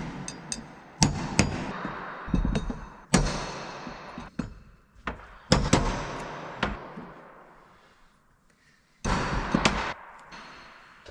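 Metal striking metal on an irrigation pump motor's parts: about ten irregular sharp knocks and clanks, each ringing out, over the first seven seconds. About nine seconds in comes a short burst of rushing noise.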